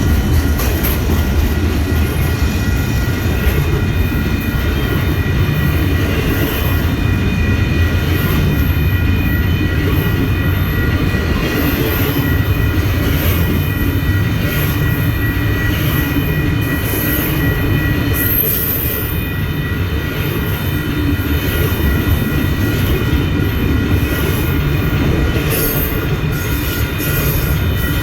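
A train rolling past: a steady, loud rumble and rattle of rail cars on the track, with a thin, steady high-pitched squeal running through it and scattered sharp clicks.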